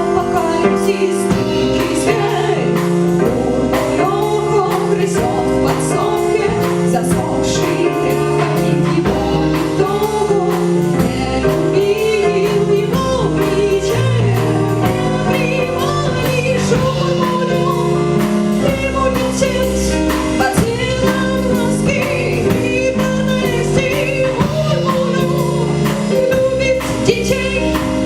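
Live band song: a woman singing over violin, with drums keeping a steady beat.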